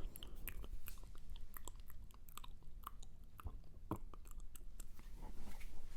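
Close-miked ASMR mouth sounds: an irregular run of short, sharp wet clicks and smacks.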